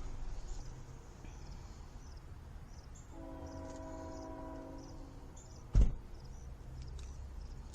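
Approaching CN freight locomotive's air horn sounding one steady chord of about two seconds, starting about three seconds in, over a low rumble of the oncoming train. A single sharp thump comes close to the microphone a little before the end.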